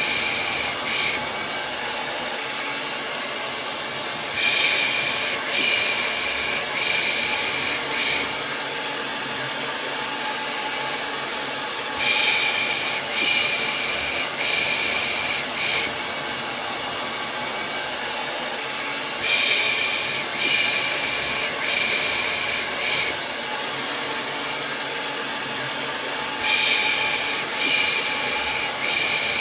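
Hair dryer running steadily, with a human 'shh' shushing ('pış pış') over it in groups of about four, repeating about every seven to eight seconds: a baby-soothing white-noise track.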